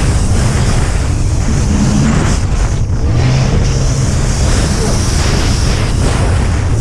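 Racing jet ski engine running hard at speed, mixed with rushing water and wind on the microphone.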